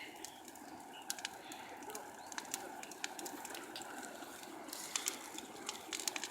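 Bonfire crackling faintly: scattered sharp pops and snaps over a low, steady rush.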